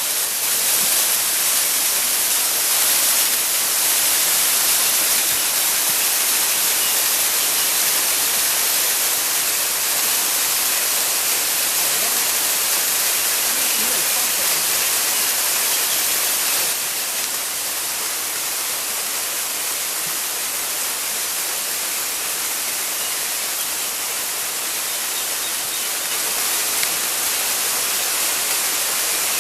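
Two-tiered waterfall: water falling steadily, a dense rushing hiss. It turns a little quieter about halfway through and picks up again near the end.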